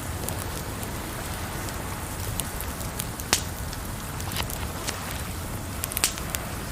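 Wood campfire crackling, with scattered sharp pops, over a steady wash of water noise.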